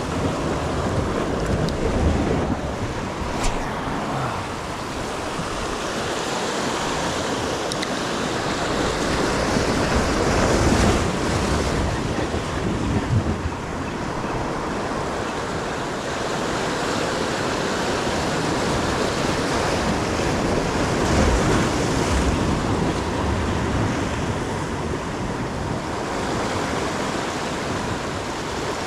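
Surf washing on the shore, with gusts of wind buffeting the microphone.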